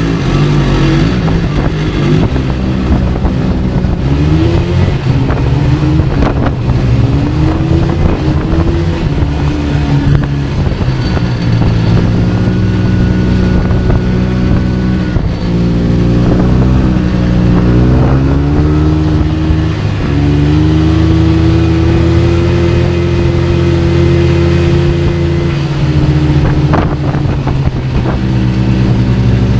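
A motor vehicle's engine running loud, its pitch slowly rising and falling as the revs change.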